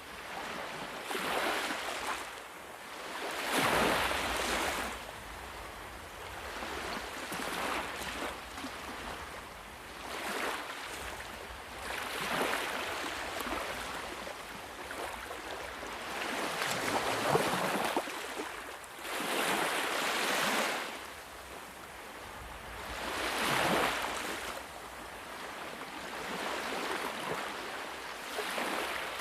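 Sea waves breaking and washing on a shore, a hissing rush that swells and fades every few seconds, the strongest surges about 4, 17, 20 and 24 seconds in.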